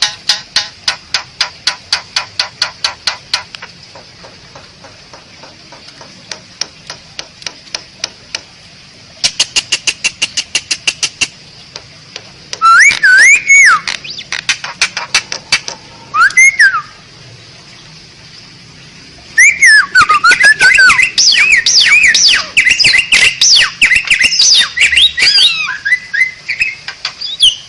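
Asian pied starling (jalak suren) singing: fast runs of dry clicks, about eight a second, then loud whistles that swoop up and down, turning into a long, busy stretch of mixed whistles and chatter in the second half.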